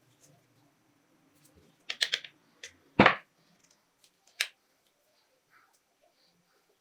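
Sharp metal clicks and clacks of pistol parts being handled: a quick cluster of clicks about two seconds in, a single louder clack about a second later, and one more click a little after.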